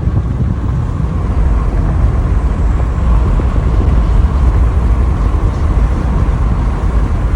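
Steady deep rumble of a car's engine and tyres heard from inside the moving car.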